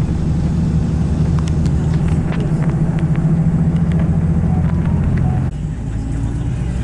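Car engine and road noise heard from inside the moving car: a steady low hum. The engine note changes abruptly about five and a half seconds in.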